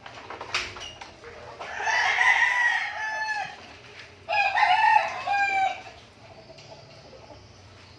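A rooster crowing twice, each crow lasting about a second and a half.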